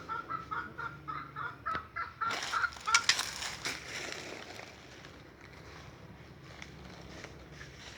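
Crunching and crackling of dry leaves and twigs underfoot. Over the first three seconds a quick run of short, high squeaks repeats, and a louder crackle comes about three seconds in. After that it settles to a quieter rustle.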